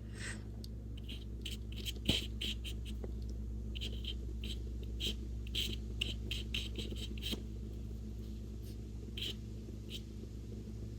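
Paintbrush stroking acrylic paint onto mixed media paper: a run of short, light scratchy swishes, with a few more near the end. A steady low hum runs underneath.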